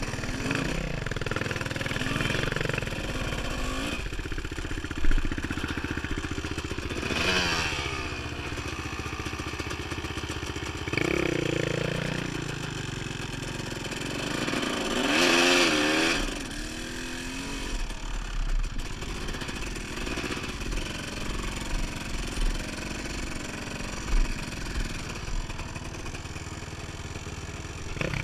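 Dirt bike engine running while ridden on trail, revving up and easing off, with pitch rises around seven and fifteen seconds in. A sharp knock about five seconds in is the loudest moment.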